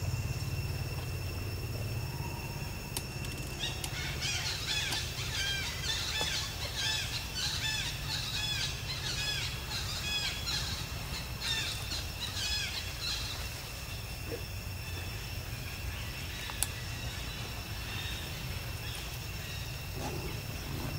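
A burst of rapid, high chirping calls, many short rise-and-fall notes, that starts about four seconds in and fades out about nine seconds later, typical of small birds. Under it runs a steady thin high-pitched whine and a low outdoor rumble.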